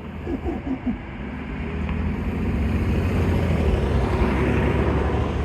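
A road vehicle's engine running close by. It starts suddenly, with a few short rises in pitch in the first second, then grows steadily louder to a peak about four seconds in.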